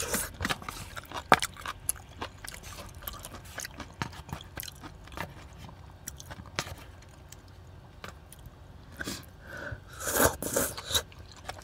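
Close-up mouth sounds of eating spicy tteokbokki, chewy rice cakes and fish cake: chewing with many small wet clicks, and a louder bite near the end.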